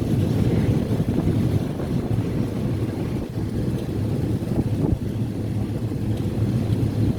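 Steady low rumble of a moving train, with wind buffeting the microphone.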